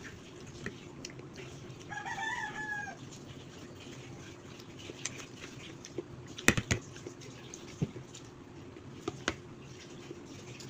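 A rooster crows once, a call of about a second, about two seconds in. A few sharp clicks follow later.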